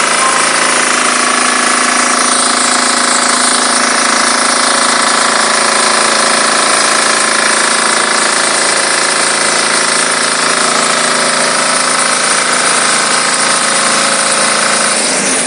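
Diesel-engine-driven high-pressure washer running steadily: a constant engine hum under a loud, even hiss.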